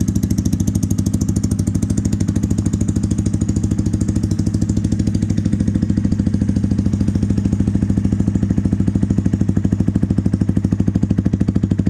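Honda Grom 125's single-cylinder four-stroke engine idling steadily through an aftermarket AODONLY titanium dual exhaust with its baffles in, an even, bassy thump.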